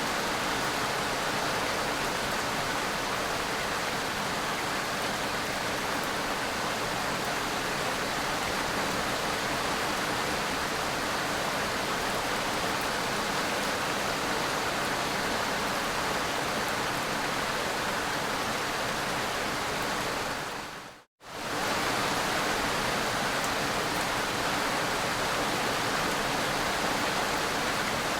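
Steady rainfall, an even hiss of many drops with no single drops standing out. About three-quarters of the way through it fades to silence for a split second and comes straight back, like a splice in a looped recording.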